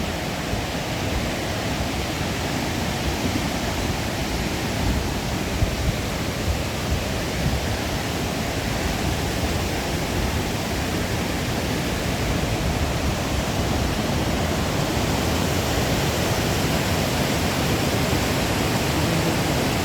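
Steady rushing of a mountain stream, an even wash of water noise with a few faint knocks in the first half.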